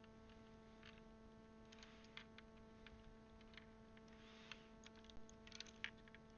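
Faint, scattered plastic clicks and taps of keycaps being handled and pressed onto the Cherry MX Blue switches of a Das Keyboard mechanical keyboard, more frequent near the end, over a steady electrical hum.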